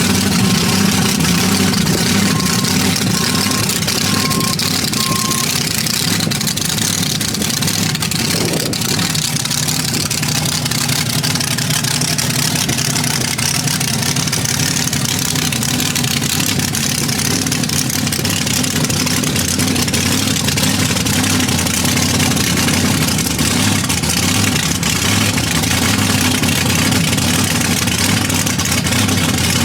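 A large engine running steadily near idle, with a faint, evenly spaced beeping during the first few seconds.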